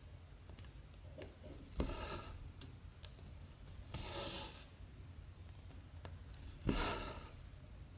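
Embroidery cotton being drawn through 14-count cross-stitch fabric: three short rasping swishes, each starting sharply, at about two, four and seven seconds in, with faint ticks of the needle piercing the cloth between them.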